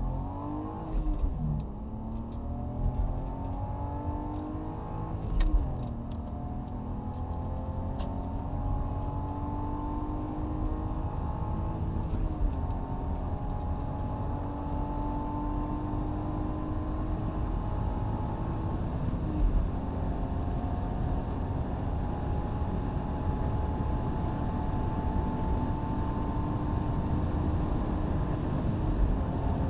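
Lexus IS200's 2.0-litre 1G-FE inline-six under full-throttle acceleration. Its pitch climbs in each gear and drops sharply at four upshifts, and each gear takes longer to climb than the last. A steady low rumble runs underneath, with a few brief knocks in the first six seconds.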